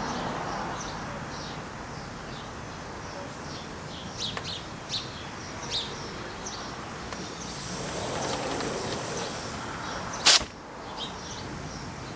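Small birds chirping in short, high notes on and off, with one sharp crack about ten seconds in, the loudest sound.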